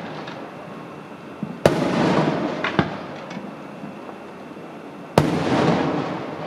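Fireworks shells bursting: two sharp bangs, one about a second and a half in and another about five seconds in, each followed by a rolling tail that fades over a second or so, with a few smaller pops between them.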